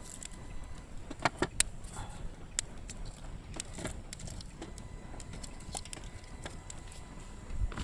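Scattered sharp clicks and knocks, with a quick cluster of three about a second in, from wood and kindling being handled while a fire is lit. A low rumble of wind on the microphone runs underneath.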